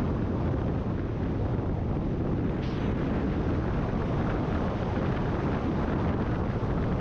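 Heavy wind rush buffeting the action camera's microphone while riding a Kawasaki ZX-10R sport bike, with the inline-four engine's noise mixed into the roar.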